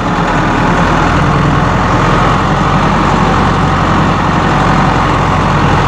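Perkins 4.4-litre four-cylinder diesel engine of a Massey Ferguson 573 tractor running steadily, close up.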